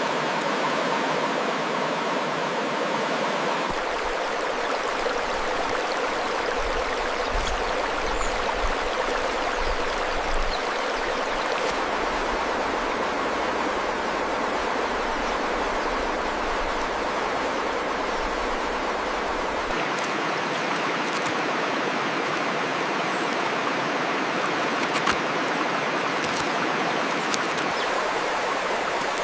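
Steady rush of flowing water, with a low rumble underneath from about four seconds in until about two-thirds of the way through.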